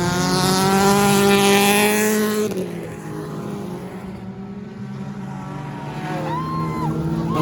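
Stock car engines during an enduro race. One car runs loud and close for about two and a half seconds, then fades, leaving a quieter steady hum of other race engines.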